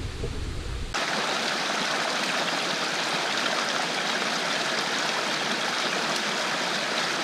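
Running water of a mountain stream rushing steadily, cutting in abruptly about a second in.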